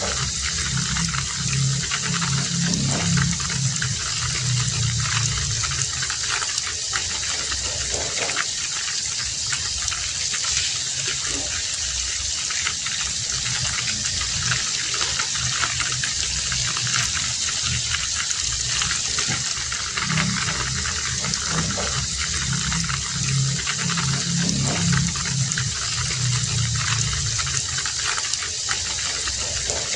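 Heavy rain falling steadily, an even hiss. A low hum swells under it in the first few seconds and again about two-thirds of the way through.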